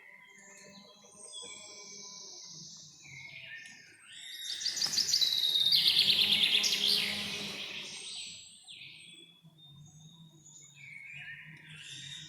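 Forest birdsong: several birds chirping and whistling, with one loud, fast run of repeated notes from a close bird about halfway through.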